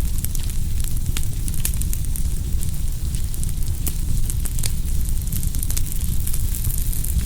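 Bonfire burning, with frequent irregular sharp crackles and pops over a steady low rumble.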